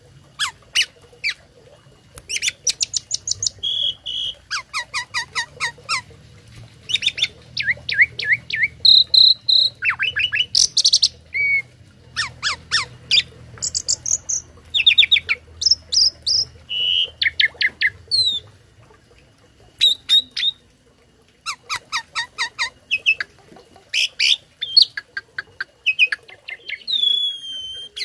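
A tame starling (jalak) singing a long varied song of rapid chattering bursts and short whistled notes, its song filled with phrases mimicked from other birds, with a short pause a little past two-thirds of the way through.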